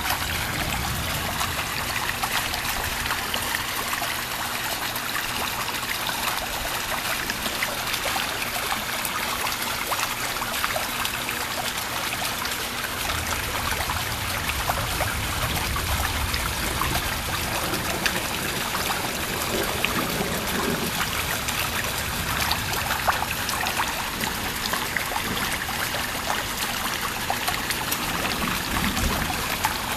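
Thunderstorm rain falling steadily: a dense, even patter of drops with trickling water.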